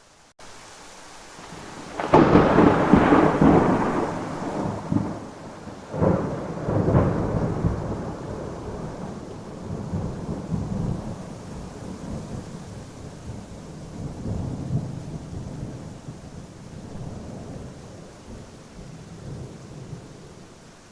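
Thunderclap about two seconds in and a second one some four seconds later, each rolling on into a long low rumble that slowly fades, over steady rain.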